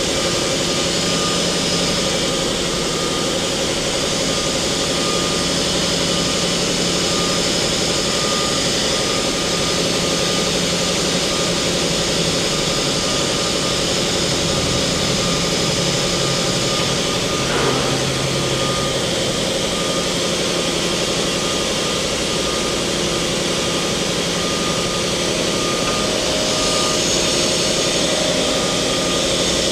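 2001 Mori Seiki MT2000SZ CNC mill-turn center running under power: a steady machine hum with a few faint tones that come and go while its Y-axis is traversed, and a brief pitch sweep about two-thirds of the way through.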